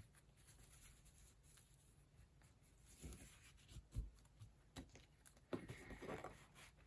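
Faint handling sounds of hands working fabric onto a glued book cover: a couple of soft taps around the middle, then rubbing and rustling near the end.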